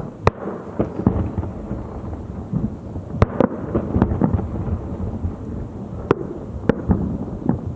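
Fireworks display: sharp bangs of shells bursting every second or so, the loudest a little after three seconds in, over a continuous rumble of overlapping explosions.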